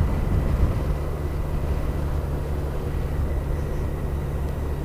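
Kawasaki GTR1400's inline-four engine running at a steady cruise, a low even drone with wind and road noise over it.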